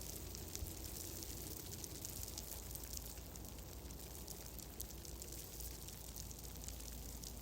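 Fireplace crackling softly: a steady patter of small, quick crackles over a constant low rumble.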